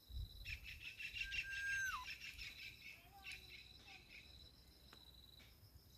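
Birds chirping in a quick cluster for about two seconds, including one held whistle that drops in pitch at its end, then a few scattered notes, over a steady high-pitched insect buzz.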